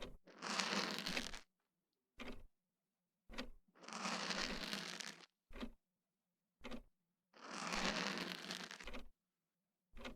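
Ear-cleaning ASMR sound: an ear pick scraping close to the microphone in three longer scratchy strokes, with short taps and rubs between them.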